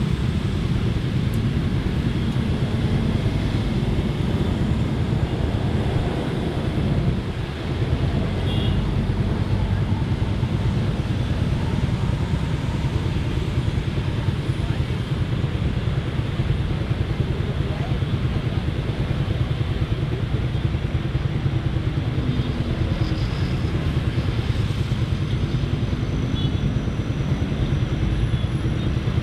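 Steady road noise from riding a motorcycle in city traffic: the bike's engine and a continuous rumble, with other vehicles around.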